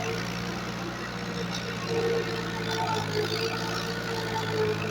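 Tractor engine idling steadily, a low even hum with a higher tone that wavers slightly above it.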